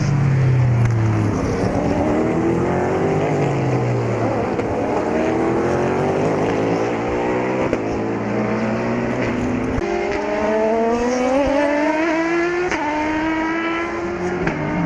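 Racing cars at speed on the circuit: one passes with its engine note falling in pitch at the start, then an engine accelerates hard with a rising note, changing up a gear about ten and again about thirteen seconds in.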